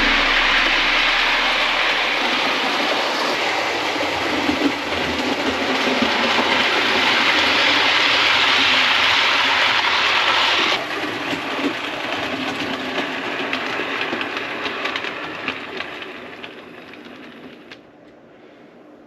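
OO gauge model train running along the layout's track: a steady rolling noise that drops off abruptly about eleven seconds in, then fades away over the last few seconds.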